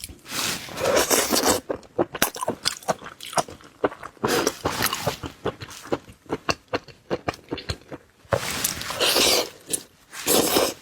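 Close-miked eating: crunchy bites and wet chewing of seafood. Rapid crisp crackles are broken up by three longer, dense crunching stretches, one near the start, one in the middle and one near the end.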